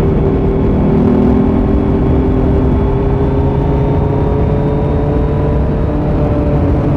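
2018 Kawasaki Z900's inline-four engine running through a Leo Vince muffler on stock headers with no dB killer, at a steady cruise with its pitch rising slowly.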